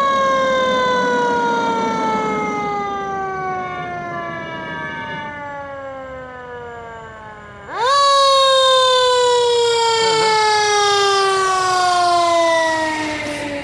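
Mechanical siren wailing in a long, slowly falling tone. About eight seconds in it is wound up sharply again, then it coasts down once more.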